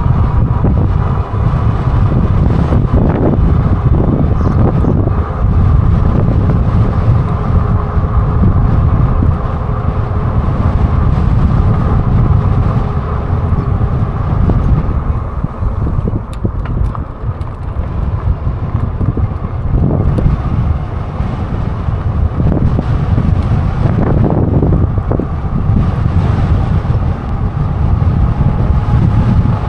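Heavy wind buffeting the microphone on a moving e-bike: a loud, steady low rumble that eases slightly in the middle. A faint thin whine shows near the start and again near the end.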